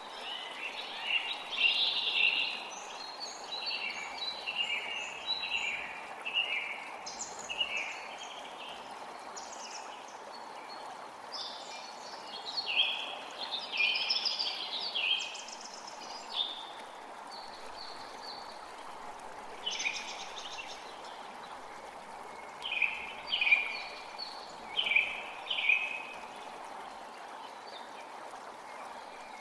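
A creek running steadily with songbirds singing over it in short, high, chirping phrases that come in clusters, thickest in the first few seconds, the middle and near the end.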